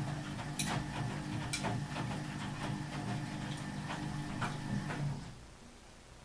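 Ardo washing machine's newly fitted drain pump running with a steady low hum, with irregular sharp clicks over it. The hum cuts off about five seconds in.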